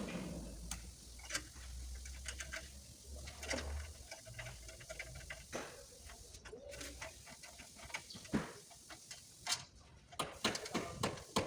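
Irregular light clicks and taps of hand tools on a car body, with a low hum during the first few seconds and a quick cluster of sharper clicks near the end.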